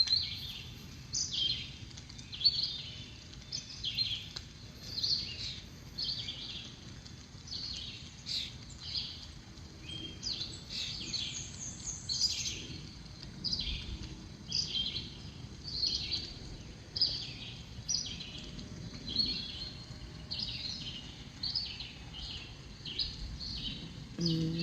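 Songbirds chirping, short high chirps repeating about once a second, over a faint low background rumble.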